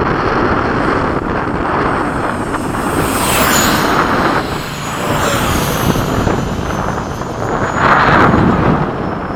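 RC electric ducted-fan jets (90mm EDF) flying by, a high fan whine gliding in pitch as they pass, swelling about three seconds in and again near the end, over a steady rumble of wind on the microphone.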